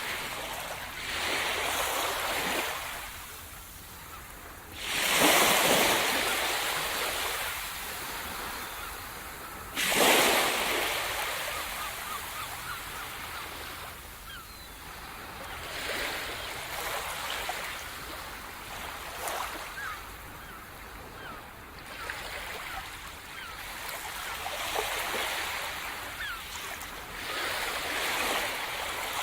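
Sea surf: waves breaking on the shore and washing back. The two strongest waves break sharply about five and ten seconds in, and smaller swells come and go after them.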